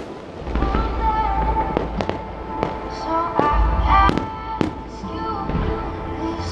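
Fireworks display: a series of sharp firework bangs, roughly one or two a second, over music playing alongside the show.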